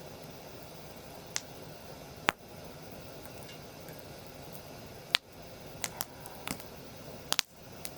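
Wood fire crackling, with irregular sharp pops every second or so, some in quick pairs, over a steady low hiss of the burning.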